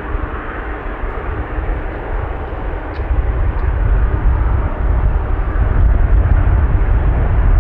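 Boeing 777-200ER's Rolls-Royce Trent 892 jet engines running at takeoff power with a deep rumble, getting louder about three seconds in.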